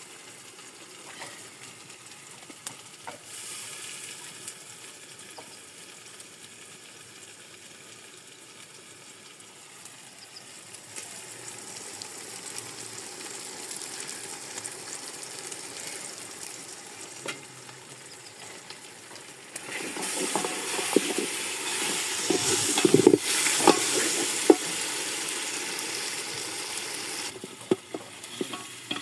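Food sizzling as it fries in a cooking pot, stirred now and then with a few knocks of the spoon. It gets clearly louder about two-thirds of the way through, then drops back near the end.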